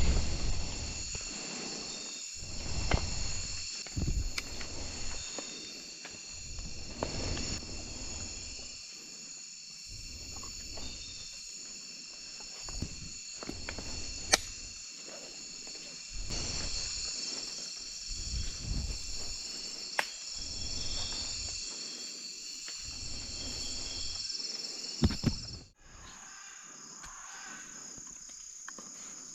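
Dense rainforest insect chorus, a steady high buzzing and trilling in several pitches at once. Close rustling and bumps of handling come and go over it, with a sharp click now and then. About 26 s in the chorus changes abruptly to a thinner, different one.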